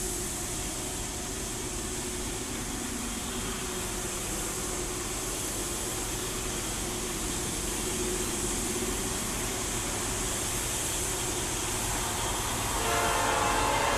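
Distant rumble of an approaching diesel-hauled train, growing slowly louder. About a second before the end, the locomotive's multi-tone air horn starts to sound.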